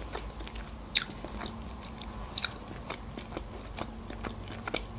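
Close-up mouth sounds of a person chewing a bite of fried chicken wing: a run of small wet clicks and smacks, with two sharper, louder clicks about one and two and a half seconds in.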